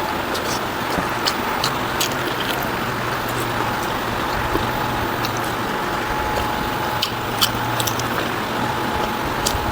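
Eating sounds: scattered wet mouth clicks and chewing of rice and pork curry, over a steady background hiss with a faint steady hum.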